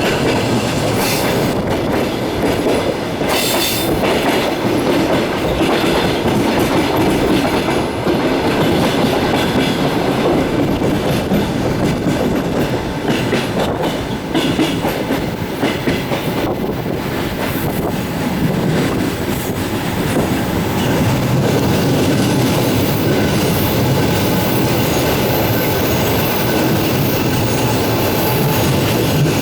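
Passenger train running along the track, heard from inside the carriage: a steady rumble of wheels on rails with occasional sharp clicks.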